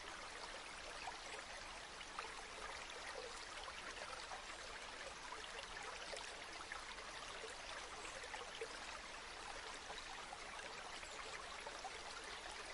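River water flowing steadily, a constant soft rush with faint trickling.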